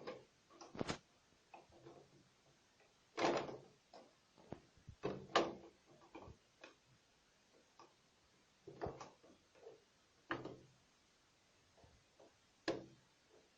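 Irregular knocks, clicks and short clatters of parts and tools being handled during motorcycle assembly, the loudest a few seconds in and again near the end.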